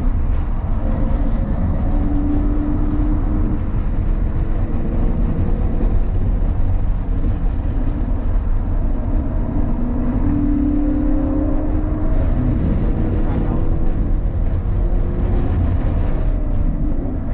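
Subaru BRZ's flat-four engine under hard track driving. Its pitch climbs several times and drops in between, over a steady low rumble.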